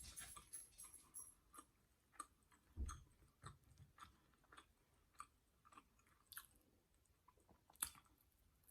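Faint close-up chewing: soft, scattered wet mouth clicks and smacks of someone eating, with a low soft thump about three seconds in and a sharper click near the end.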